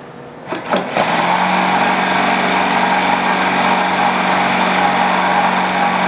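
Model aircraft glow engine starting: a few pops about half a second in, then it catches and runs steadily at a constant speed.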